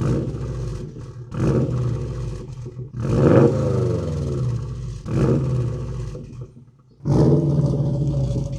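Subaru STI's turbocharged 2.5-litre flat-four engine revving through an aftermarket exhaust in about five short blips, each rising and falling in pitch, with the typical Subaru rumble.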